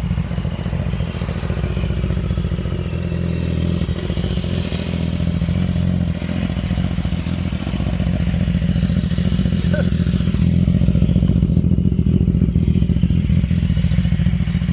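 2014 BMW S1000RR's inline-four engine idling steadily, a little louder in the second half.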